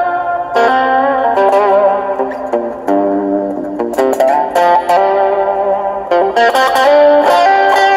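Electric guitar played through an overdrive pedal and a digital delay into a small solid-state practice amp: a run of picked single notes and chords in a mildly overdriven rock tone.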